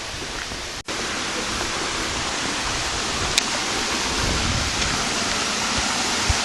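Steady rushing of a forest stream, an even wash of water noise that drops out for an instant about a second in.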